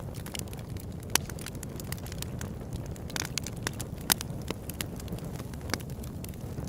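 Open-air campfire burning: a steady low rush of flame under irregular crackling, with sharper pops about a second in and about four seconds in.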